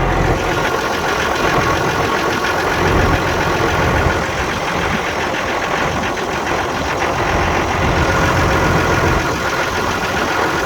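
Tractor engine running steadily, with a fast, even pulse of firing strokes.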